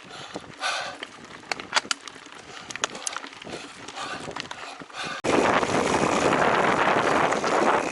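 Giant Trance Advanced Pro mountain bike ridden on a dirt trail: chain and frame rattling with scattered sharp clicks and knocks. About five seconds in, a loud steady rushing noise sets in suddenly and covers everything else.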